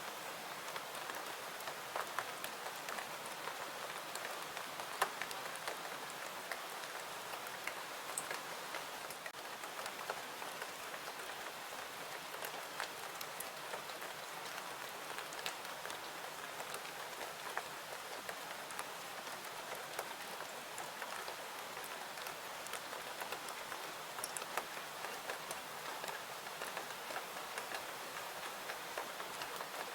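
Steady rain falling: an even hiss with many small scattered drop ticks and pops.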